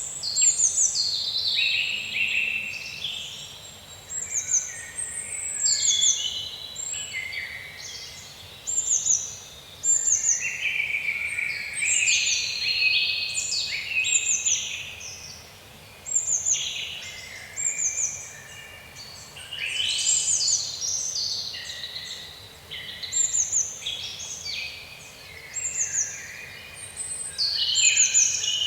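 Several songbirds singing in a forest: many quick, high chirps that drop in pitch, repeated every second or so, mixed with warbled phrases, over a faint steady background hiss.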